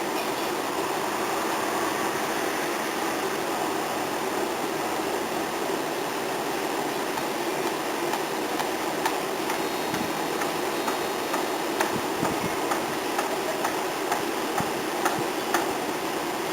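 Steady background hiss with a run of light, sharp taps and clicks from about halfway on, from hand work on the bird feeder.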